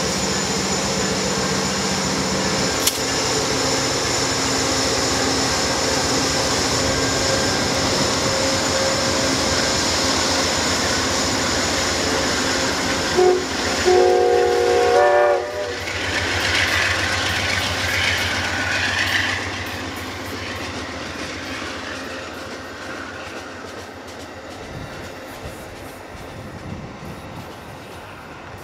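Amtrak GE P42DC diesel locomotive running as it pulls a passenger train out. Its air horn sounds about halfway through, a short blast then a longer one. The engine and the rolling cars then fade as the train moves away.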